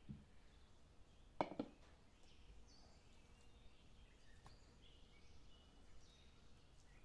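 Faint birds chirping in short calls, with two sharp knocks in quick succession about a second and a half in.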